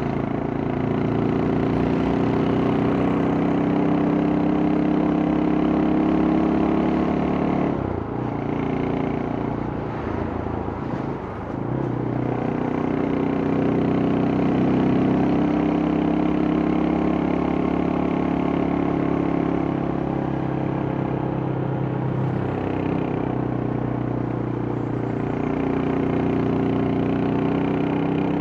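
Yamaha Scorpio single-cylinder motorcycle engine and exhaust under way, the pitch climbing slowly, dropping off briefly about eight seconds in and then climbing again.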